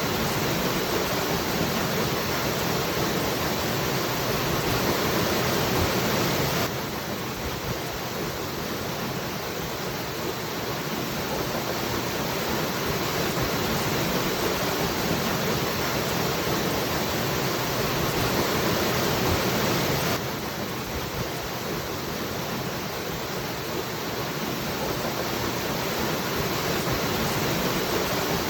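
Waterfall, water pouring down in a steady, unbroken rush. The level drops suddenly about seven seconds in and again about twenty seconds in, then slowly builds back up.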